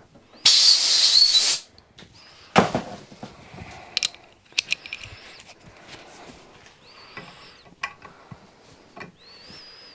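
A loud hiss of compressed air lasting about a second, then a shorter blast and a few brief, fainter puffs with a slight whistle, with small metallic clicks and knocks from hand tools in between, as the threaded hole is cleared and worked with a tap.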